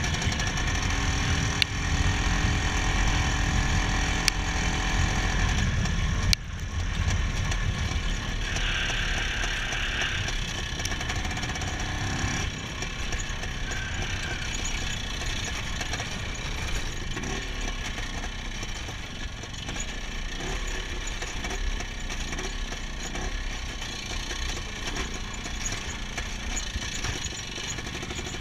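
IZh Planeta 5's single-cylinder two-stroke engine running as the motorcycle is ridden. About six seconds in the sound drops suddenly and carries on a little quieter and steadier.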